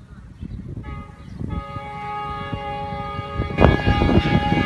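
Air horn of a Pakistan Railways GEU-40 diesel-electric locomotive sounding a long, steady multi-note chord as the express approaches. About three and a half seconds in, the horn and the low rumble of the oncoming train grow louder.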